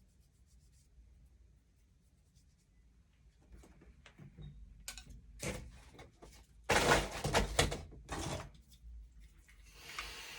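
Workbench handling during silver soldering: scattered light clicks and knocks of tools and metal, then a few loud, short rushing noises about two-thirds of the way in.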